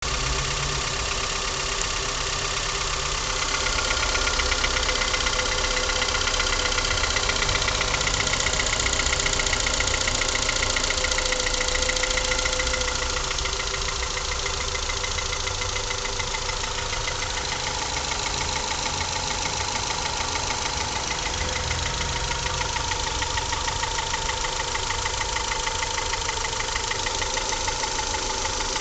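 Honda Accord's F20B 2.0-litre four-cylinder engine running with a rhythmic knock, a little louder for several seconds in the first half before settling back. The knock's cause is unknown to the owner.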